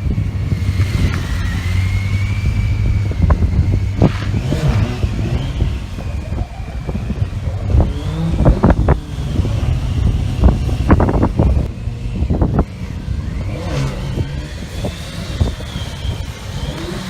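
Motorcycle engine running and being revved in sharp bursts, with a cluster of quick rev blips about halfway through.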